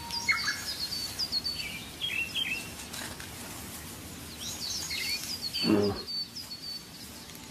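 Wild birds chirping over outdoor ambience: two runs of quick, repeated high chirps, each about a second and a half long, one at the start and one from about four and a half seconds in, with lower chirps between them. A short, louder, lower-pitched sound comes just before six seconds in.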